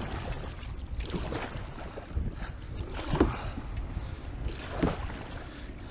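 Water sloshing and splashing against a kayak's hull in irregular surges, over a low rumble of wind on the microphone.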